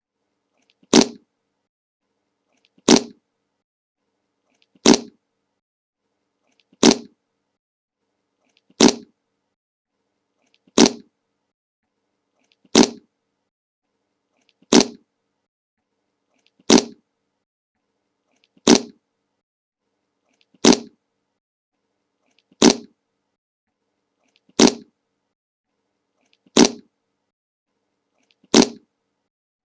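The 'Le Monke' meme fart sound effect played on a loop: the same short fart sound repeats identically about every two seconds, fifteen times.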